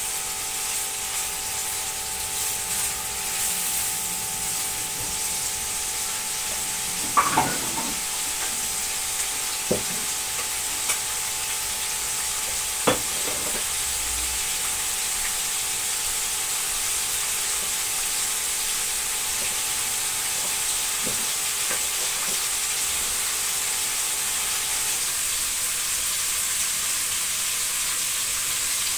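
Beef liver pieces sizzling steadily as they fry in oil in a nonstick pan, stirred with a silicone spatula at the start. A few light knocks come in the first half.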